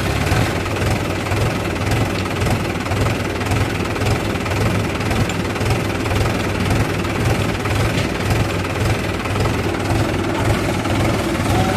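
Heavy diesel engine of farm or earthmoving machinery running steadily.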